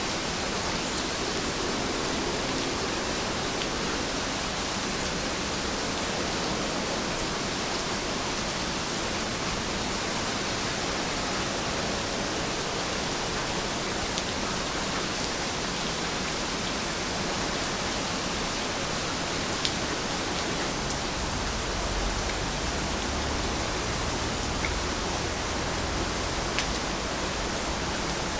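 Steady rain, a dense even hiss with scattered sharper ticks of single drops. A low rumble joins in about three quarters of the way through.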